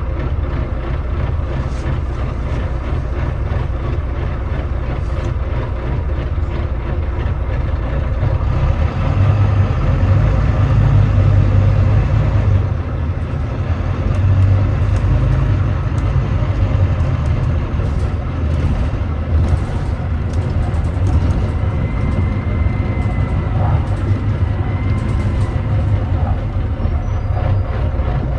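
Volvo D9B 9.3-litre diesel of a Volvo B9TL double-decker bus running under way, pulling harder about eight seconds in, easing off around twelve seconds, then pulling again. The engine is said to be misfiring.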